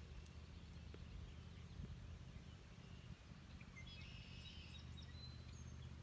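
Faint birdsong: a short run of high chirping notes in the middle, then a brief thin whistle near the end, over a steady low background rumble.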